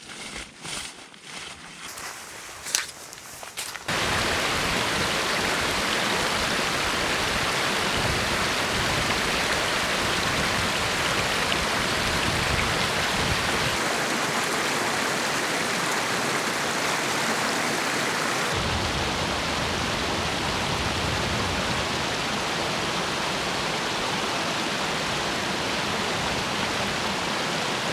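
Steady rushing noise of storm wind and driving snow, starting abruptly about four seconds in after a few seconds of faint rustling and knocks.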